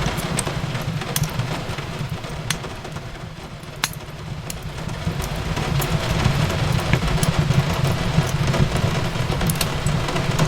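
Wood fire crackling in a fireplace: a steady low rumble of flames under scattered sharp pops and snaps, with a distinct pop a little before the middle, over a hiss of rain. The level dips briefly near the middle and swells again.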